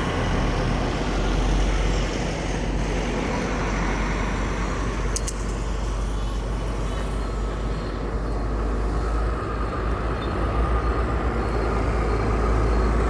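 Road traffic with trucks: a steady low engine rumble that grows heavier and pulses in the last few seconds, with a brief sharp click about five seconds in.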